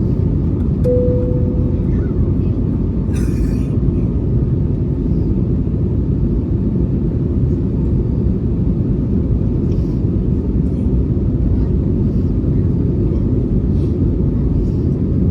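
Jet engines of an Airbus A320neo at takeoff power, a steady low rumble. A short high tone sounds briefly about a second in.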